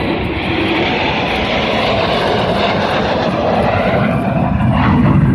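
Jet engine roar of a Thunderbirds F-16 flying overhead, a steady rush of noise that grows louder and deeper near the end.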